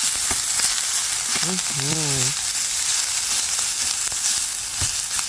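Pork sausage bits sizzling steadily in a frying pan on a small butane camp stove, with a few light clicks of a utensil or lid. A brief wordless vocal sound comes about two seconds in.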